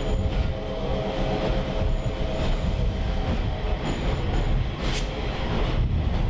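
Train in motion heard from a riding caboose: a steady rumble of wheels on rail with a droning diesel locomotive engine, and a sharp click about five seconds in.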